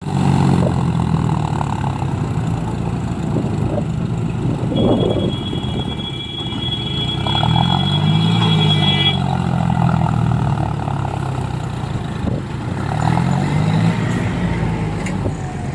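Tractor diesel engine running under load while pulling a loaded sugarcane trolley, its pitch rising and falling back twice. A steady high tone sounds for about four seconds in the middle.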